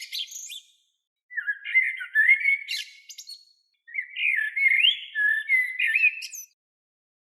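A bird calling in phrases of quick chirps and short rising whistles: a phrase trailing off just after the start, then two more of about two seconds each, with gaps between.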